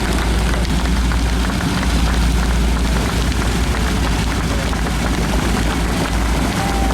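Steady drone of a propeller aircraft, with a heavy low rumble of wind buffeting the microphone.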